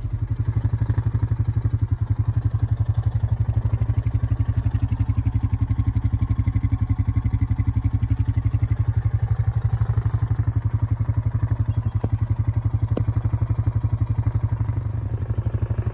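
A motor vehicle's engine running steadily: a low drone with a fast, even pulsing.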